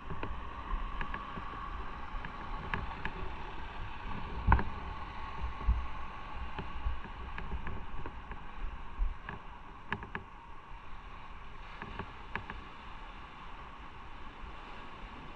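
Motorcycle running on the road, with a steady engine and wind noise and scattered short knocks and clicks, the loudest about four and a half seconds in.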